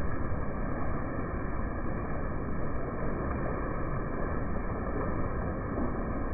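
Rain falling, a steady, even hiss with no breaks.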